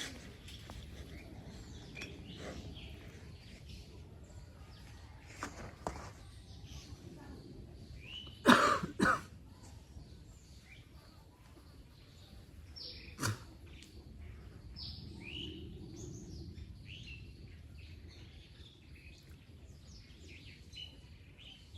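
Scattered short, high chirps from birds over a steady low background noise, with two loud knocks a little past halfway and a sharp click a few seconds later.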